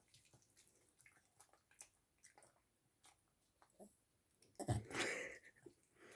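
A dog chewing food, a run of small soft clicks. About four and a half seconds in comes one louder thump with a short rush of noise.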